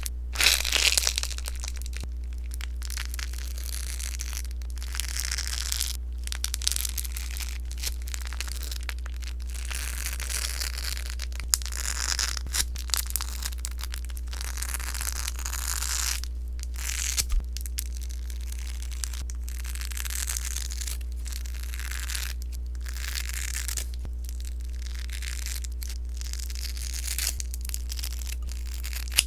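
Sponge slime being pressed and squeezed, crackling with dense small pops in repeated squeezes a second or two long. A steady low hum runs underneath.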